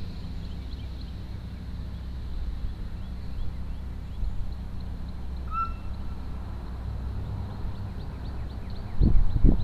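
Outdoor street ambience with a steady low rumble. A bird gives a single short whistled note about halfway through, and faint high chips repeat throughout. Near the end come a few loud low thumps on the microphone.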